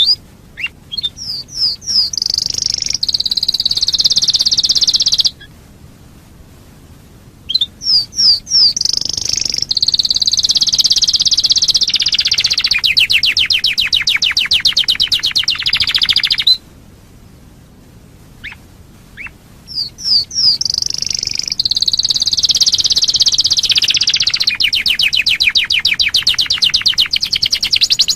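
Canary singing: three long song bouts, each opening with quick rising chirps and running into fast rolling trills, with short pauses between them.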